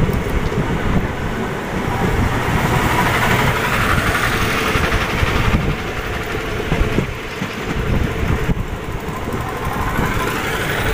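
Indian Railways passenger train running at speed, heard from the coach: a steady rumble of wheels on the rails with no let-up.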